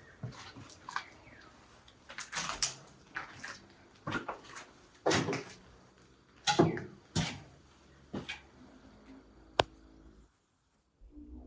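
Irregular crunching footsteps and knocks on debris, with a sharp click near the end.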